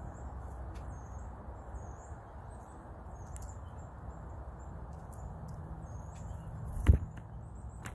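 Many short, high-pitched bird chirps over a steady low outdoor rumble, with one loud thump about seven seconds in.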